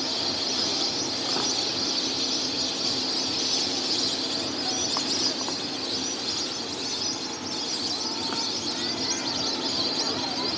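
A large flock of migratory birds calling all together, a dense, continuous chorus of many overlapping high chirps.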